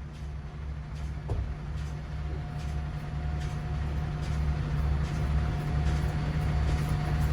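Semi-truck diesel engine running with a low, pulsing rumble that grows steadily louder, with a faint steady whine joining in about a second in.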